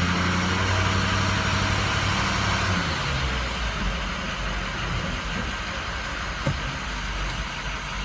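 Diesel truck engine idling steadily during a high-pressure oil test. About three seconds in, its hum drops and changes to a quieter, rougher running sound.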